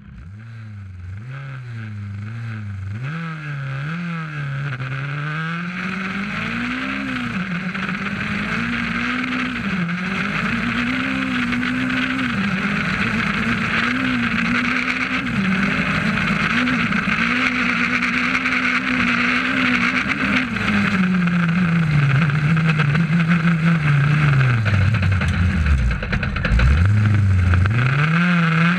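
Rally car engine heard from inside the cockpit at stage pace, fading in at first, its pitch climbing through each gear and dropping back at every upshift, over a steady hiss. Late on the engine note falls away very low as the car slows, then climbs hard again.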